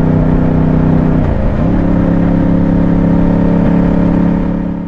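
Yamaha MT-07 parallel-twin engine running steadily under way, with wind buffeting the microphone. The revs dip briefly about a second and a half in, then settle again, and the sound fades out near the end.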